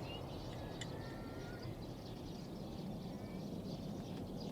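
Outdoor background noise: a steady low rumble with a few faint, short, high calls.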